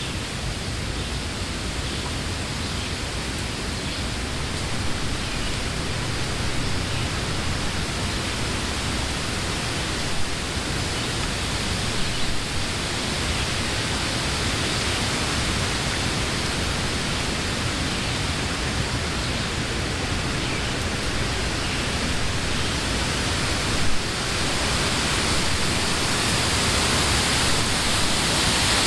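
Wind blowing through the leaves of trees, a steady rushing hiss that swells a little louder near the end.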